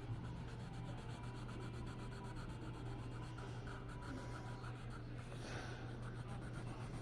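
Faint, steady rubbing and scratching of an art tool working on a surface, over a steady low hum.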